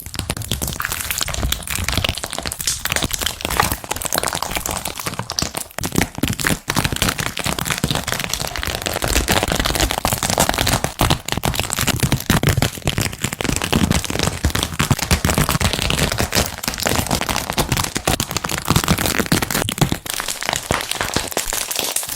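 Slime being squeezed and poked by hand, giving a dense, continuous crackling of many small clicks.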